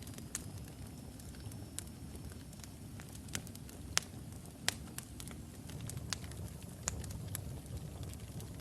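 Wood logs burning in a fireplace: a steady low rumble of flame with scattered sharp crackles and pops, the two loudest about four and five seconds in.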